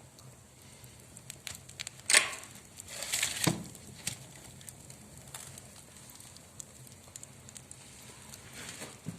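Wood fire crackling in a stove-fireplace, with scattered pops and one loud crack about two seconds in, followed by a short noisy burst ending in a thump.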